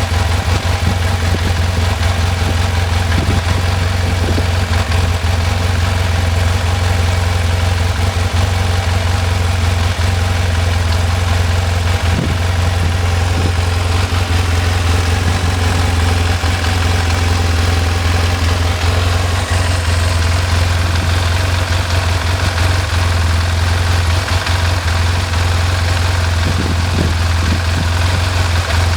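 BMW F800ST's parallel-twin engine idling steadily, with a mechanical noise that the owner asks may be piston slap.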